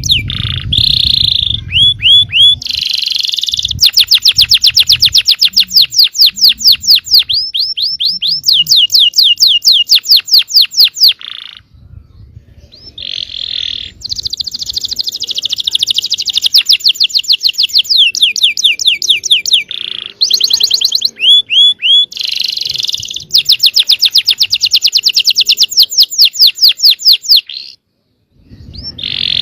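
Yellow canary singing: long rolling trills of fast, rapidly repeated high notes mixed with short whistled phrases. The song breaks off briefly about halfway through and again near the end.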